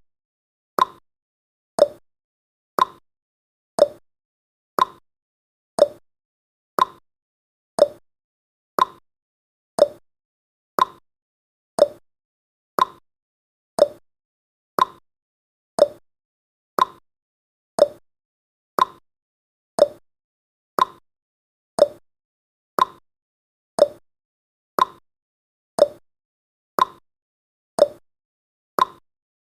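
Clock ticking sound effect, one tick a second, alternating a higher tick and a lower tock.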